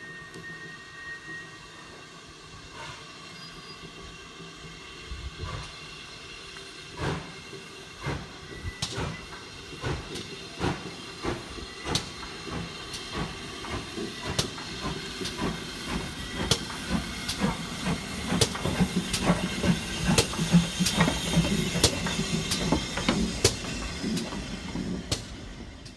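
Steam locomotive and its train on the move: a steady steam hiss under a run of sharp knocks and clanks that grow louder and more frequent, loudest about twenty seconds in.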